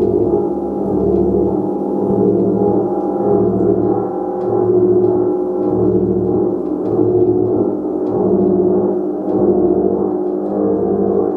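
Gong being played continuously, a dense sustained wash of overlapping tones that swells and fades about every second and a half.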